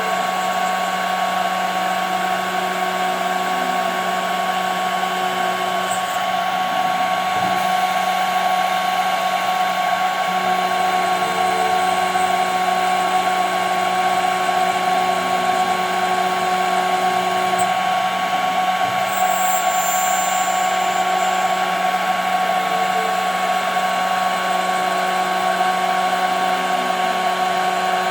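CNC router spindle running steadily with a high, even whine while milling 5 mm plexiglass. A fainter lower tone comes and goes several times.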